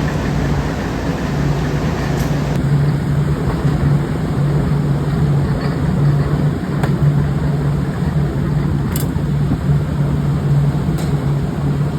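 Factory machinery running with a steady low hum, with a few faint clicks.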